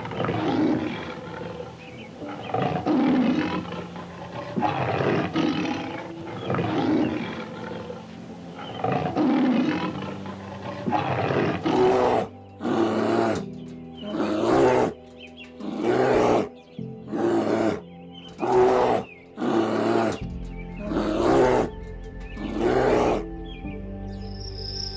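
A big cat calling in a roaring bout: long roars about every two seconds, turning into shorter, quicker grunts about one a second from about halfway through, over soft background music.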